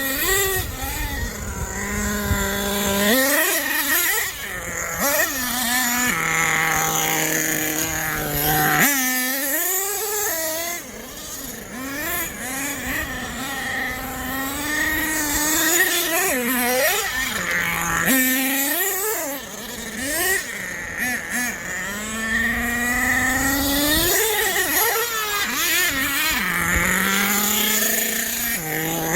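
Small nitro engine of a radio-controlled monster truck revving up and down over and over, dropping back to a low steady idle now and then between bursts of throttle.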